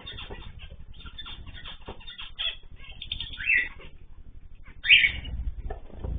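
Cage birds fluttering their wings, a quick run of rustling flaps, with two short loud bird calls about three and a half and five seconds in.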